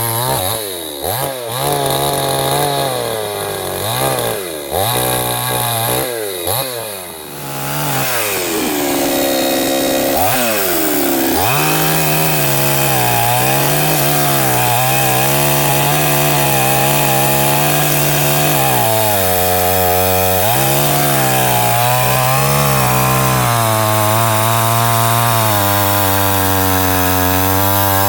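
Two-stroke gasoline chainsaw revved in quick throttle blips for the first several seconds. From about twelve seconds in it is held at high speed, its pitch sagging and recovering several times.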